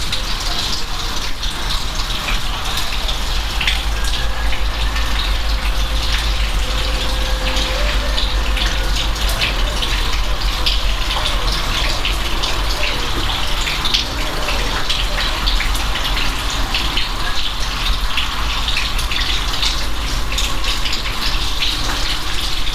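Steady heavy rain, a dense hiss of countless drops striking surfaces, with many sharp individual drop hits over a low rumble.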